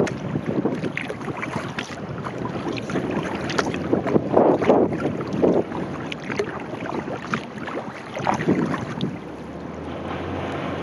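Kayak paddling: paddle blades splashing into the water every second or so, with water washing along the hull and wind buffeting the microphone.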